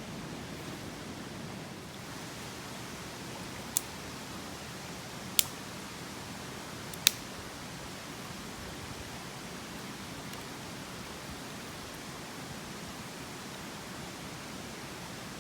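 Steady rushing of a mountain stream, with three short sharp clicks about four, five and a half and seven seconds in.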